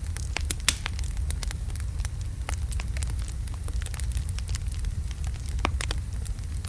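Wood logs burning in a fireplace, crackling with frequent sharp pops over a steady low rumble of the flames; the loudest pop comes under a second in.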